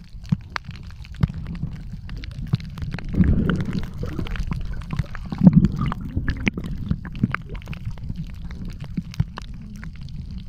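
Water heard underwater: a steady low rumble with many small scattered clicks and crackles, and louder gurgling swells about three and five and a half seconds in.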